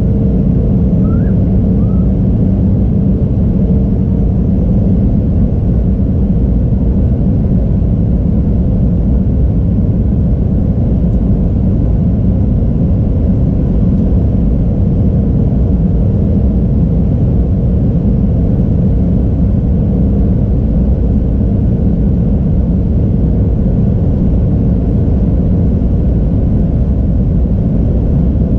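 Airliner cabin noise: a steady, loud, low rumble of engines and airflow, with a faint steady hum over it.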